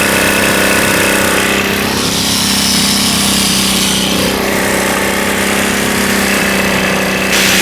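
Old generator's small engine running steadily at a constant speed: an even, loud mechanical drone with a steady hum.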